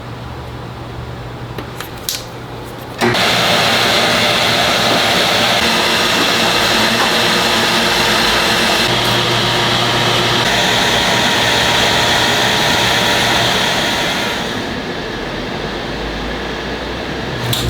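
A small workshop power tool, such as a jeweler's polishing or grinding motor, running steadily. It starts suddenly about three seconds in after a low hum, and gets quieter near the end.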